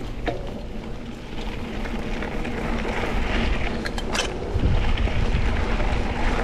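Mountain bike rolling along a dirt trail: tyre noise and small rattles of the bike, with wind rushing over the microphone that grows louder about halfway through as the bike gathers speed downhill.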